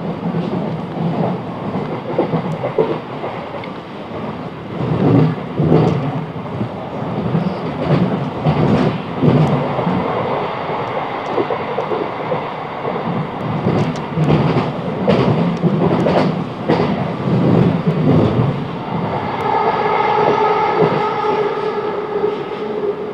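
Class 707 electric multiple unit running along the track, its wheels rumbling and knocking irregularly over rail joints and pointwork. Near the end a steady whine with several tones comes in over the rumble.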